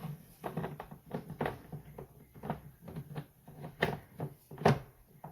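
A run of light knocks and scrapes of espresso grounds being tamped into the portafilter basket of a Chefman espresso machine, with two sharper knocks near the end.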